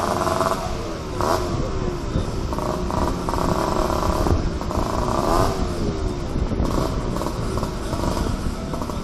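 Several classic small-capacity motorcycles and mopeds running together, their engine notes overlapping and rising and falling in pitch as they rev and pass.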